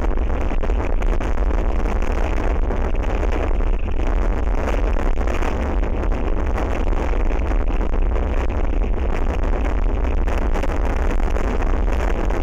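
Very strong wind buffeting an outdoor microphone: a loud, steady rush of noise, heaviest in a deep low rumble, with no let-up.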